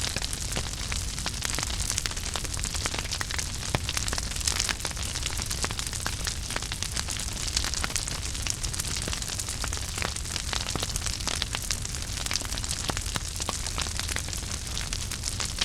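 Wood fire burning in a fireplace: a steady hiss and low rumble with frequent sharp crackles and pops.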